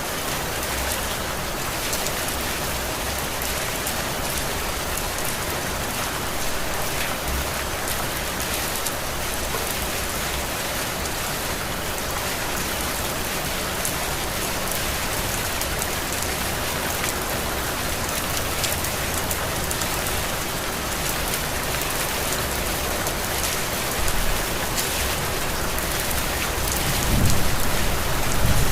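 Heavy rain falling steadily, a dense hiss with the patter of individual drops. A low rumble swells in near the end.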